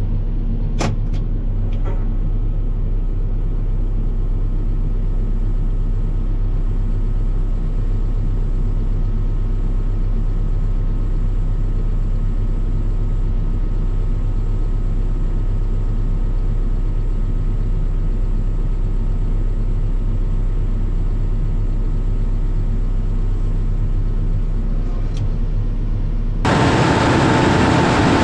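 Chevrolet farm truck engine running steadily while the truck is driven, a constant low hum. Near the end the sound jumps to a louder, harsher machine noise.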